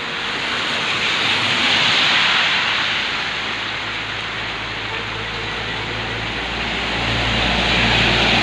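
Heavy rain falling in a dense, steady hiss that swells twice. A low steady hum joins near the end.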